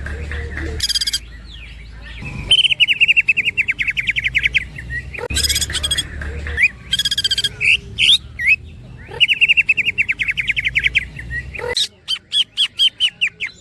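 Green leafbird (cucak ijo) singing loudly. It mixes fast rattling trills of rapidly repeated notes with harsh, buzzy calls, and near the end gives a run of sharp clipped notes about four a second.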